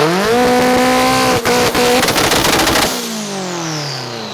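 Tuned car engine revved up onto a two-step launch limiter and held there at a steady pitch, with a rapid crackle of pops and bangs. About three seconds in the throttle is released and the revs fall away.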